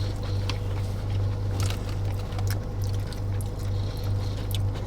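Steady low hum of a car idling, heard from inside the cabin, with scattered soft clicks from eating food.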